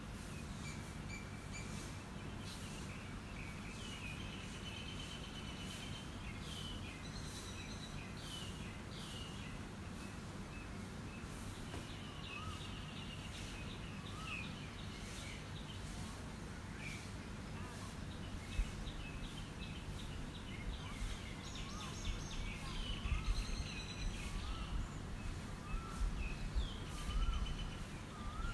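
Birds chirping and tweeting many times over a steady low background noise, with a run of small repeated lower notes joining about halfway. A few low bumps come in the last third.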